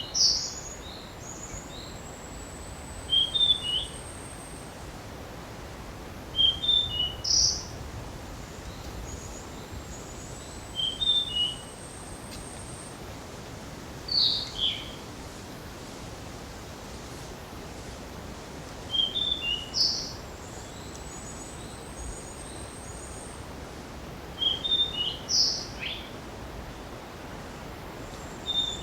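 Narcissus flycatcher singing: short clear whistled phrases repeated every three to five seconds. A thin, very high drawn-out note that rises slightly sounds between some phrases, over a steady soft hiss.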